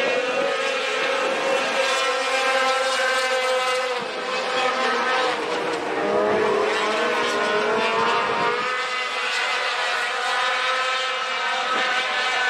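Pack of sport trucks racing on a short oval: several engines run at high revs together. Their pitches rise and fall as the trucks lift for the turns and accelerate down the straights, with a brief dip about four seconds in.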